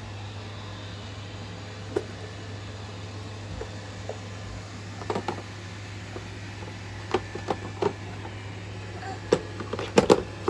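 A steady low mechanical hum with a few sharp clicks and knocks scattered through, the loudest cluster of knocks near the end.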